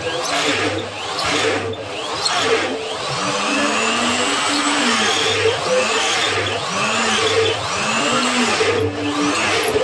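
Electric power tool motor running under load during the sander build. Its pitch rises and falls in repeated swells about once a second.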